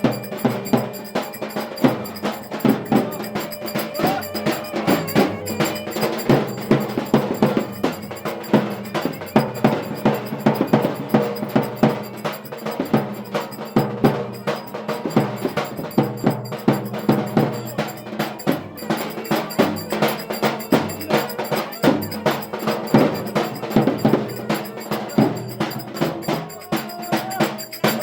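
Turkish folk dance music (oyun havası) with a busy, driving percussion rhythm of sharp clicking strikes over a sustained melody.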